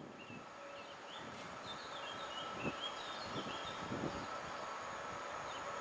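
Birds chirping over the low rumble of an approaching train, which grows gradually louder with a faint steady hum.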